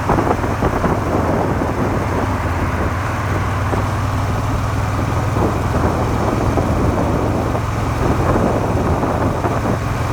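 Suzuki SV400's V-twin engine running at a steady cruise with an even, unchanging hum, mixed with wind rushing over the microphone. The engine has a home-reground crankshaft that knocks faintly only above 4000 rpm.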